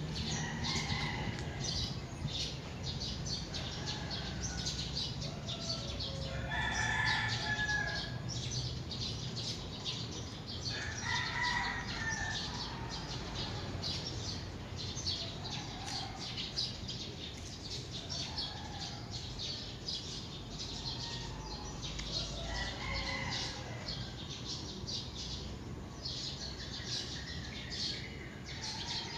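Birds calling outdoors: steady, fast high chirping throughout, with a louder, longer call every few seconds, the loudest about seven seconds in.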